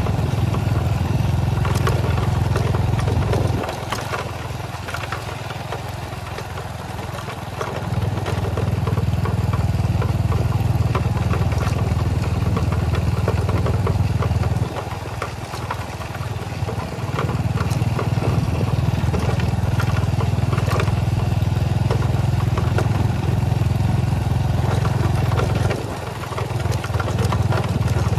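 Engine running steadily. It eases off three times (about four seconds in, around the middle, and near the end) before picking up again.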